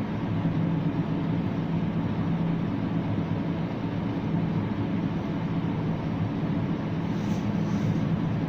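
Steady low hum and rumble of a Ferris wheel in motion, heard from inside a climbing gondola.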